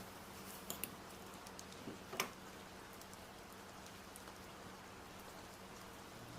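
Rain falling steadily, a soft even hiss with a few scattered drip ticks and one sharper click about two seconds in.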